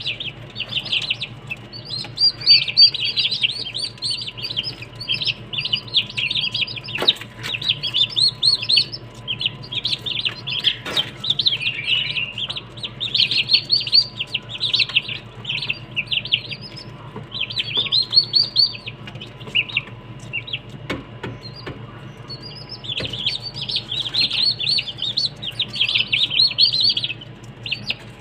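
Small birds chirping busily in rapid runs of high notes, broken by a few short pauses, over a steady low hum.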